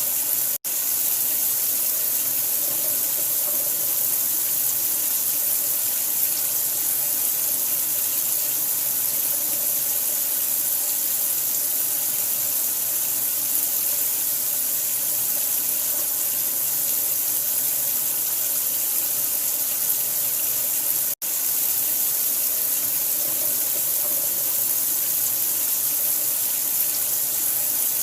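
Steady rush of running water, like a tap running hard into a sink, cut by two brief moments of silence: one just after the start and one about three-quarters of the way through.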